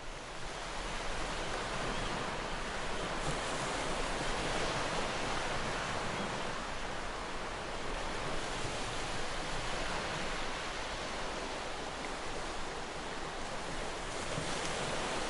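Sea surf washing steadily, an even rushing noise with slow, gentle swells, fading up over the first second.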